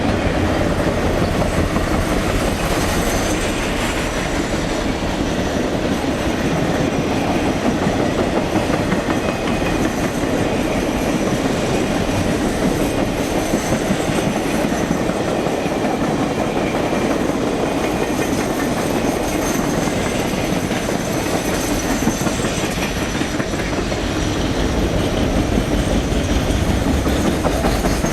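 Norfolk Southern Triple Crown RoadRailer train rolling past: the highway trailers ride on rail bogies, with continuous, steady wheel-on-rail noise.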